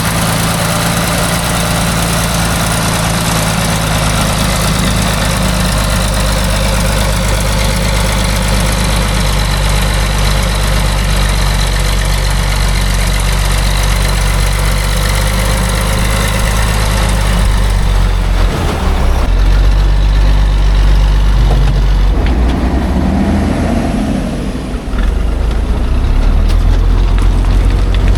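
Heavy logging truck engine running steadily at idle. About two-thirds through, the high hiss fades and a deeper, louder engine sound takes over.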